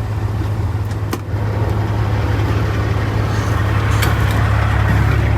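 Peterbilt 379's Caterpillar C15 diesel idling steadily, with a sharp click about a second in after which the engine sounds a little louder, and another click about four seconds in.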